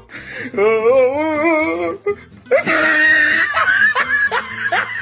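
A person laughing hard, ending in a run of short rising bursts. The laughter opens with a long wavering sound.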